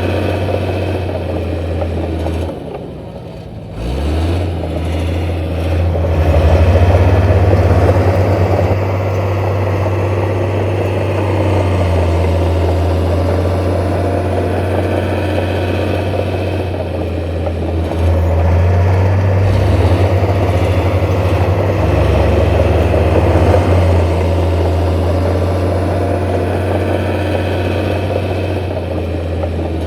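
Heavy construction machinery's diesel engine running, its note rising and falling as the load changes. It dips briefly about three seconds in, then comes back up and gets louder.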